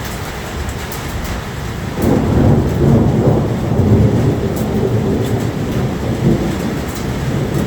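Steady rain with a low rumble of thunder that swells about two seconds in and keeps rolling.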